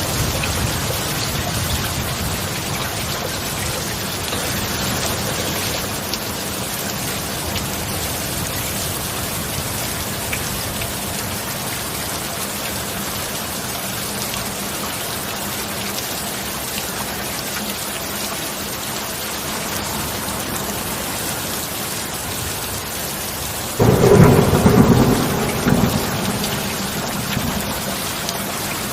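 Heavy rain falling steadily, with a faint steady low tone under it. About 24 seconds in, a sudden loud clap of thunder breaks in and rumbles away over a few seconds.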